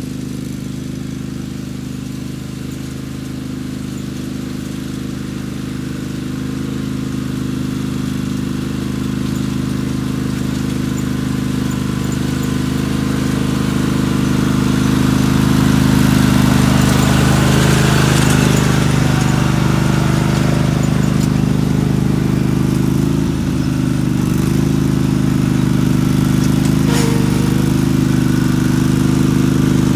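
Mini tractor engine running steadily under load as it pulls a homemade tiller through the ground, growing gradually louder over the first half and then holding.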